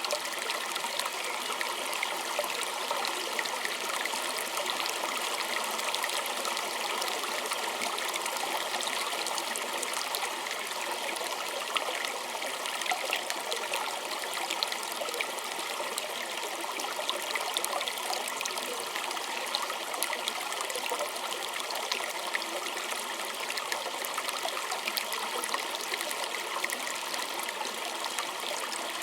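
A small creek trickling and babbling steadily over stones, with many small splashes and gurgles in the flow.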